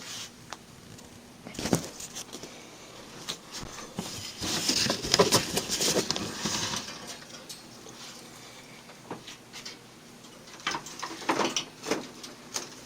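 Handling noise of a wire bird cage being lifted and set down onto its base: scattered knocks and clicks, with a longer stretch of rattling about halfway through and a few more knocks near the end.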